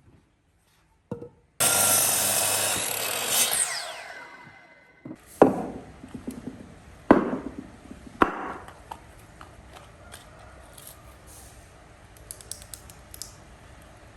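A power tool runs briefly, then spins down with a falling whine as it coasts to a stop. Three sharp knocks follow, a second or so apart.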